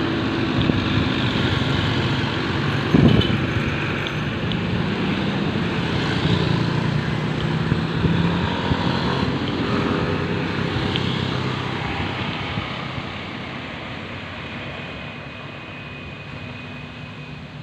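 Road vehicle running past, a steady engine and road rumble with a sharp knock about three seconds in, growing fainter over the last few seconds as it moves away.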